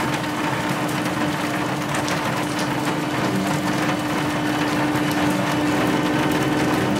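Steady hiss with scattered crackles from a wrecked car steaming after hitting a tree, under a low held tone.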